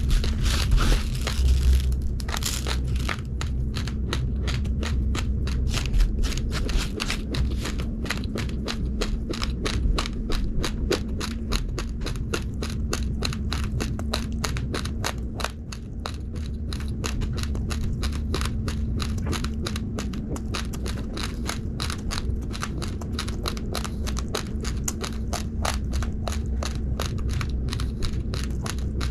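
Uncooked rice grains being crunched between the teeth close to the microphone: a dense run of crisp cracks, several a second, over a steady low rumble.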